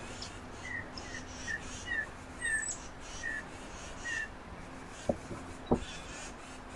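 Small songbirds calling around a feeder: a run of short, falling chirp notes about twice a second, with fainter higher chirps above, then two sharp clicks near the end.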